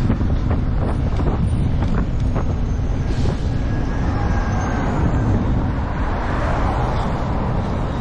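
Wind buffeting the microphone while riding a bicycle, a steady loud rumble with a few light clicks.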